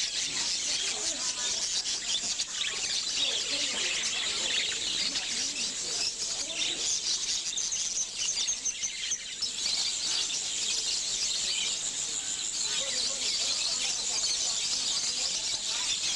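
A dense, steady din of many caged small birds chirping and twittering at once, with faint voices of people underneath.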